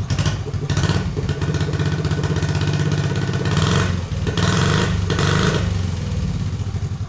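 1969 Honda Z50 mini bike's small single-cylinder four-stroke engine running just after starting, with the throttle blipped a few times so it revs up and settles back.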